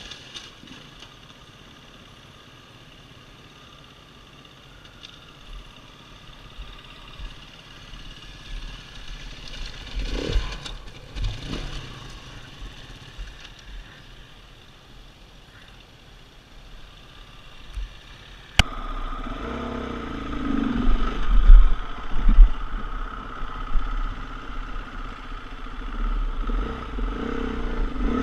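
Dirt bike engine running, faint at first; about two-thirds of the way through it suddenly becomes much louder and closer, surging unevenly with a heavy low rumble.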